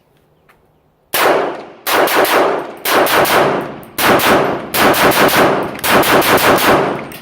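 300 Blackout AR-15 pistol with an 8.5-inch barrel firing, starting about a second in: about twenty loud shots in quick groups of three or four, each with an echoing tail. The gun cycles every round without a stoppage.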